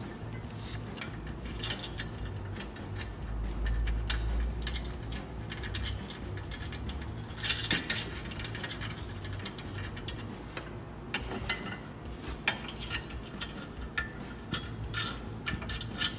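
Metal clinks and clicks of flange nuts being fitted and tightened onto carriage bolts with a wrench while a steel leaf plow hitch is assembled, with a low rumble of handling about a third of the way in.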